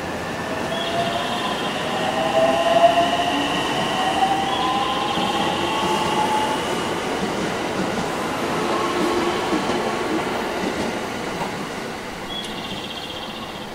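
Electric commuter train pulling out and running past, its motors whining with a slowly rising pitch over the rumble of wheels on rail. The sound fades as the train moves off near the end.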